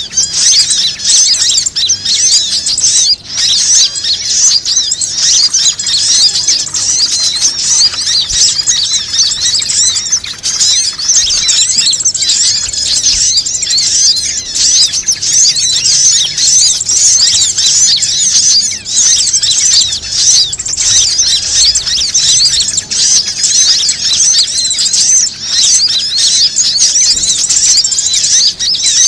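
Bird-lure recording: a dense, continuous chorus of many small birds chirping and trilling rapidly in high pitches, with no pauses.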